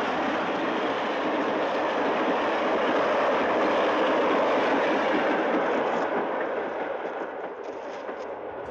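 A train passing: a steady rumble that fades away over the last few seconds.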